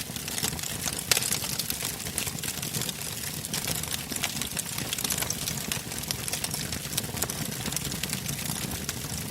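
Wood fire burning in a fireplace: a low steady rumble of flames with frequent sharp crackles and pops, one louder pop about a second in.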